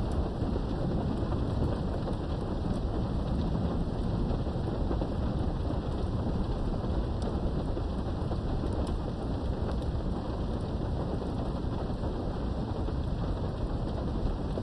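Steady rain during a thunderstorm heard from behind a window, with a continuous low rumble underneath and a few faint drop ticks; no sharp thunderclap.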